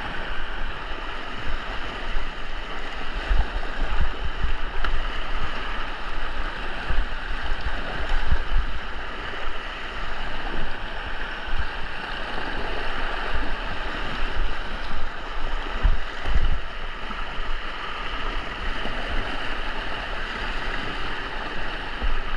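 Rushing white water on a river rapid: a steady, even hiss, with occasional low thumps.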